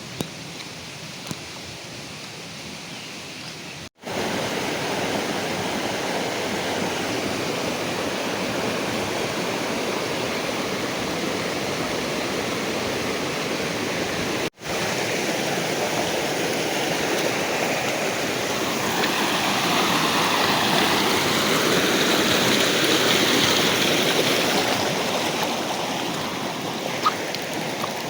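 Rushing water with a steady, even rush. It cuts out abruptly twice, about four and fourteen seconds in, and is louder after the first break.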